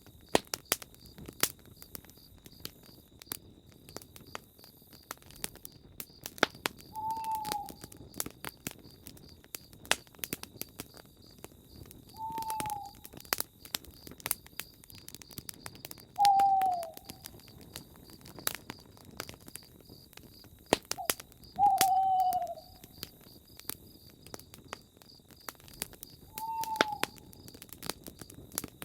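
Campfire crackling with sharp pops throughout, under a steady high insect trill. An owl hoots five times, each a short call falling in pitch, about every five seconds.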